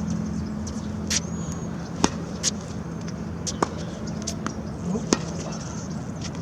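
Tennis rally: sharp racquet strikes on the ball and ball bounces, a few irregular hits a second apart or more, over a steady low hum.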